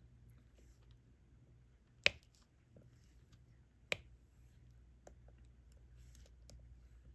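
Diamond painting: sharp clicks and faint small ticks as a diamond painting pen picks up resin drills and presses them onto the canvas, with two louder clicks about two and four seconds in.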